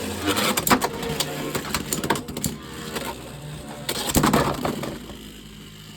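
Beyblade X spinning tops whirring and clashing in a plastic stadium, a rapid run of sharp clicks and knocks over a steady spinning hum, with a heavy flurry of hits about four seconds in. The battle ends with Viper Tail bursting apart.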